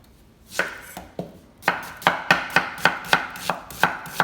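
Knife chopping a white onion on a cutting board: a few scattered strokes about half a second in, then a steady run of about three to four knife strikes a second.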